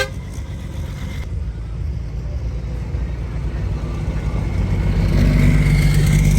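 Racing truck diesel engines rumbling, quieter at first and then growing louder, with a steady engine tone coming in about five seconds in as a truck draws near.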